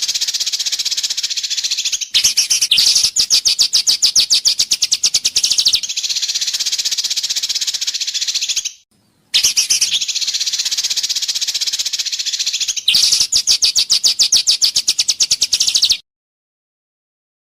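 A recorded songbird's harsh call played as bird-training audio: a dense, high-pitched buzzing rasp that turns into a fast rattling series of pulses. The same phrase repeats after a sudden short break about halfway through, and cuts off again near the end.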